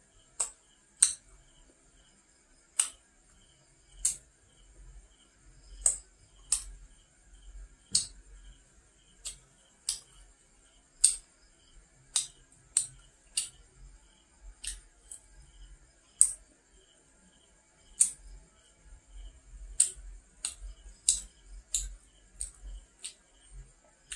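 Close-miked chewing of fried nom krouch pastry: sharp, crisp crunches and mouth clicks about once a second at an uneven pace, over a faint steady high-pitched whine.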